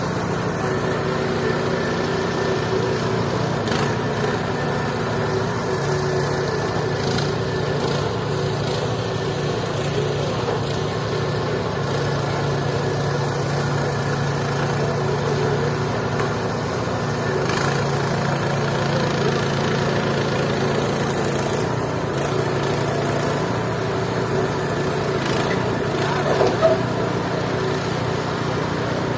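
Mobile band sawmill running steadily, a constant machine drone whose pitch stays even, with one brief knock near the end.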